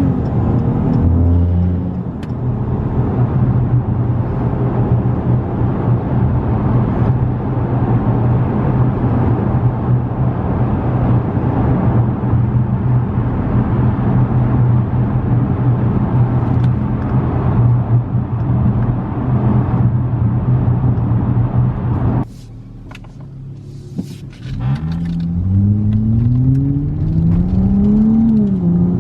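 Cabin sound of a 2016 Dodge Challenger's 3.6-litre Pentastar V6 and exhaust: a steady low engine drone for about twenty seconds that suddenly drops to a much quieter level. Then the engine pitch climbs as the car accelerates, with a brief dip near the end.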